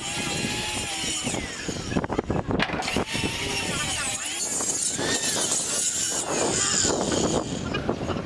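Power saw cutting wooden roof boards, its pitch rising and falling as it cuts, with a few knocks of wood about two to three seconds in.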